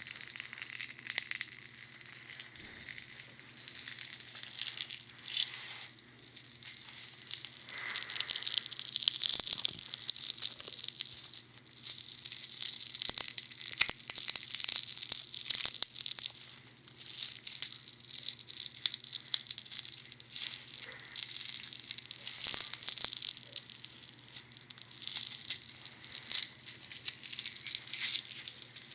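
Funny Foam squished and rubbed against the binaural ear microphones of a dummy head: dense, close-up crackling and fizzing, louder in stretches near the middle.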